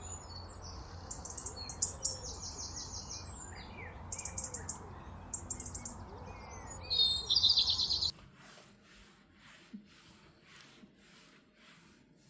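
Small birds chirping and singing over a steady low rumble of outdoor background noise. About eight seconds in this cuts off suddenly, giving way to a quieter rhythmic swishing, nearly two strokes a second.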